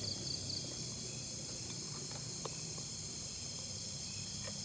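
Steady high-pitched chorus of crickets and other night insects. A faint high pulse repeats about every half-second over it, with three quick chirps near the start and a few soft clicks.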